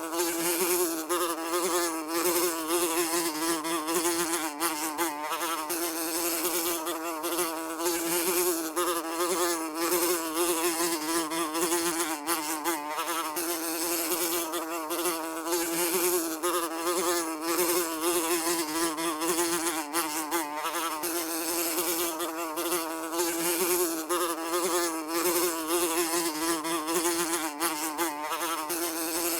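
Housefly buzzing continuously in flight, its wing-beat drone wavering slightly in pitch and loudness as it moves about.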